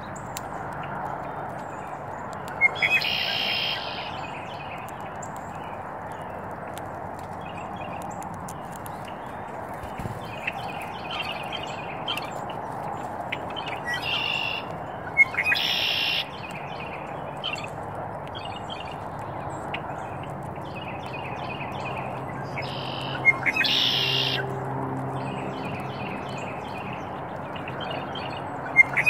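Birds at a feeder: about five loud, harsh calls of roughly a second each, spaced several seconds apart, with fainter short chirps between them over a steady outdoor background hiss.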